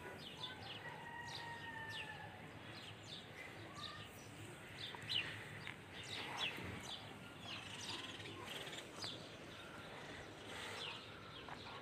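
Small birds chirping faintly in short, scattered calls.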